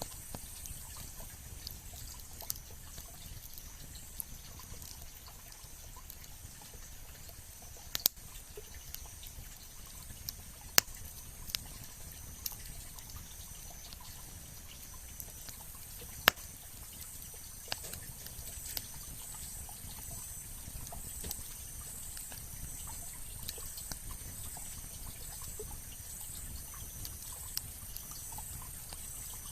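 Wood campfire crackling, with many small ticks and a few sharp loud pops. A steady high-pitched background runs underneath.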